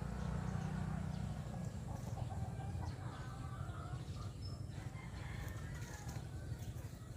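Domestic chickens clucking in short, scattered calls over a steady low rumble.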